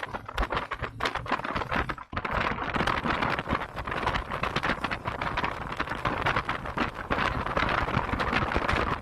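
Wind buffeting and crackling on the microphone of a moving motorcycle, with road and engine noise beneath; it drops out briefly about two seconds in, then comes back stronger.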